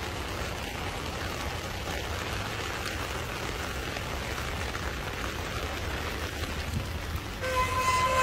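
Steady hiss of heavy rain falling on floodwater and hard surfaces. A short steady tone sounds near the end.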